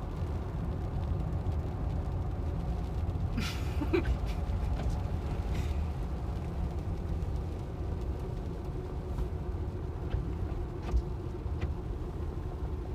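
Steady road noise inside a Tesla electric car on wet pavement: a low tyre and body rumble with no engine note. A brief hiss comes about three and a half seconds in, and a few small clicks near the end.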